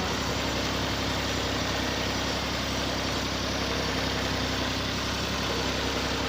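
Fiat tractor's diesel engine running steadily.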